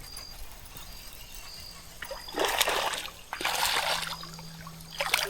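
Water splashing in two short bursts, with a few sharp clicks near the end, as a hooked smallmouth bass thrashes at the surface.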